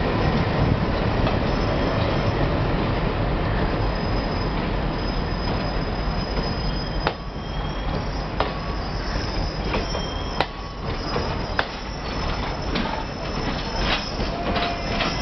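Passenger express train rolling slowly past, its wheels squealing on the rails with thin high steady tones. About halfway through the rolling noise eases and sharp clicks from the wheels crossing rail joints stand out.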